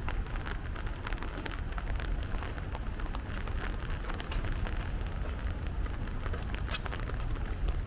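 Steady rain falling, with many irregular close drop ticks over a steady low rumble.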